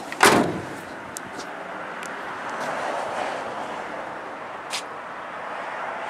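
A single loud slam of something on the pickup being shut right at the start, then steady outdoor background noise with a few faint ticks.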